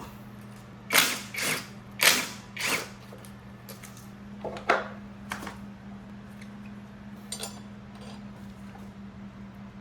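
Metal tools and parts clanking while a motorcycle is taken apart: four loud clanks in the first three seconds, then a few lighter knocks, over a steady low hum.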